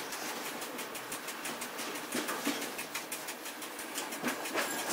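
Running noise inside the cab of a Piano Ribassato double-deck driving trailer rolling along the track: a steady rumble and hiss from the wheels on the rails, with many quick, irregular clicks and rattles.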